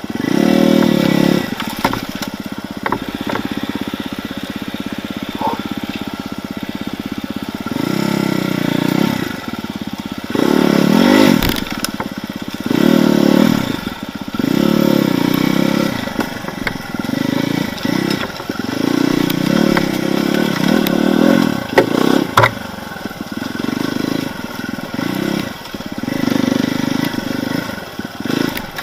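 Enduro motorcycle engine blipped in repeated short bursts of throttle, rising and falling between a lower steady running note, as the bike is worked slowly through tight forest terrain. Occasional sharp knocks and scrapes can be heard.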